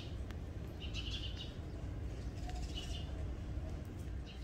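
Small birds chirping: a short twittering call about every second and a half, over a steady low rumble.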